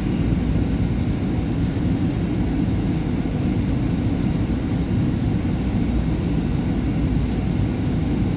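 Steady low rumble of a subway train on SEPTA's Market–Frankford Line.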